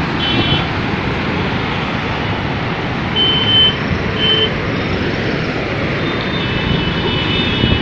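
Steady rumbling outdoor noise, with short high beeping tones about half a second in, around three and four seconds in, and a longer run of them near the end.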